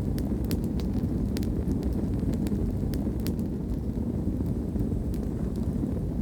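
Wood campfire burning: scattered sharp crackles and pops of the logs, clustered in the first half and sparser later, over a steady low rumble.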